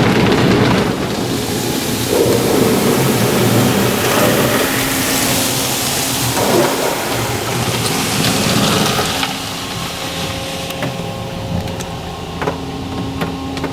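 D&S Odyssey soft-touch automatic car wash running its cycle, heard from inside the car: water spray drumming on the body. After about nine seconds the spraying eases, leaving a steady machine hum and a few clicks.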